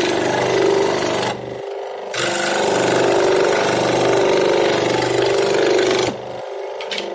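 Electric power tool working wood, loud while it bites into the piece. It eases off briefly about a second and a half in and again near the end, while the motor keeps running.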